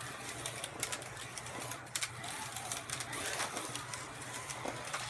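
Carrera Digital 132 slot cars running on the track: a steady motor whir with scattered sharp clicks.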